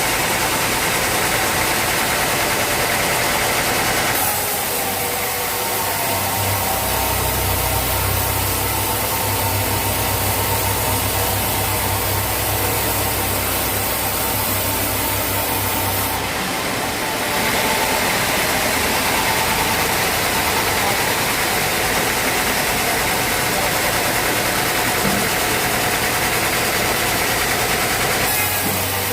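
Sawmill machinery running steadily: a continuous mechanical drone with hiss. The sound shifts abruptly about four seconds in, again around sixteen seconds, and near the end, with a deep hum present for about ten seconds in the first half.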